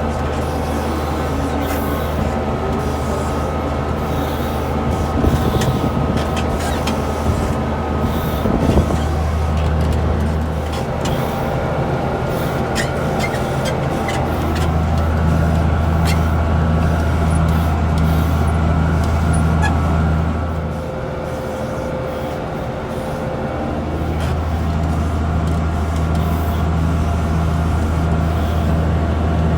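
Diesel farm tractor running steadily under load while mowing alfalfa, with a constant low hum and the mower's whir. The low drone eases off twice for a few seconds and then comes back.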